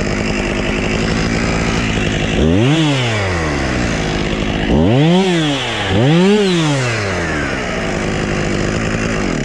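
Husqvarna two-stroke chainsaw running at a steady idle, then revved three times, its pitch rising and falling back each time, before settling to idle again.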